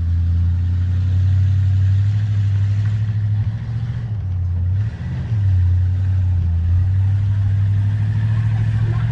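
Monster truck's engine running with a steady low drone, easing off briefly about halfway through and then picking back up.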